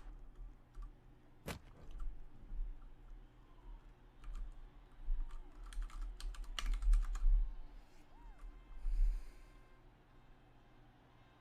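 Irregular sharp clicks and taps, one loud click about a second and a half in and a quick run of them around the middle, over a steady low hum.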